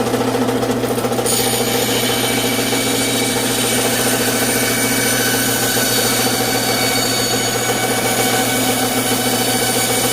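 Electric saw running steadily with a strong, even hum while cutting a piece of tree-branch wood. A brighter hiss joins about a second in.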